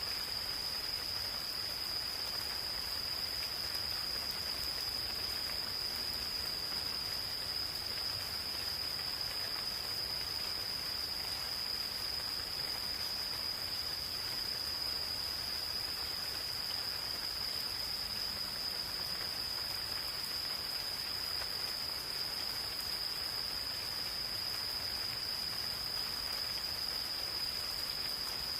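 Insects calling in one steady, unbroken high trill over the even hiss of gentle rain.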